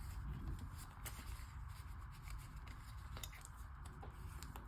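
Paper cash and binder envelopes being handled: soft rustling with a few light clicks, over a steady low background hiss.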